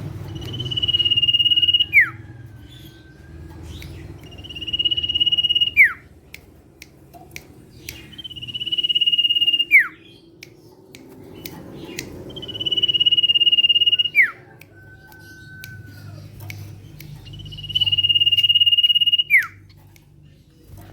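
Common iora (sirtu, cipow) calling five times, about every four seconds. Each call is a long, level, high whistle that ends in a quick downward slide. Twice a fainter, lower, steady note follows.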